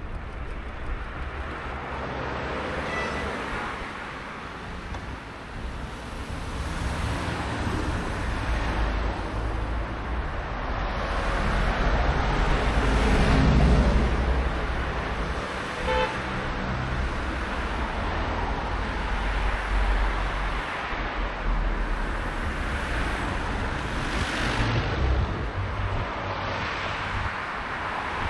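Road traffic passing during a bicycle ride, with low wind rumble on the microphone, swelling louder about halfway through. A short horn toot sounds about sixteen seconds in.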